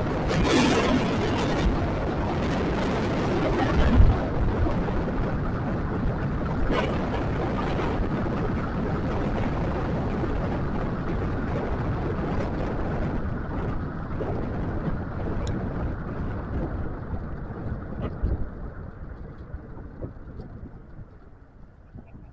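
Wind buffeting the microphone and road rumble while riding a scooter, with a sharp thump about four seconds in; the noise fades over the last several seconds.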